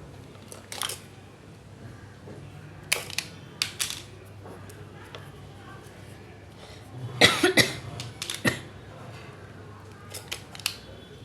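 Scattered small clicks and rustles of wires and small electronic parts being handled during wiring, with the loudest cluster of clicks about seven seconds in and a few more near the end; a faint steady hum runs underneath.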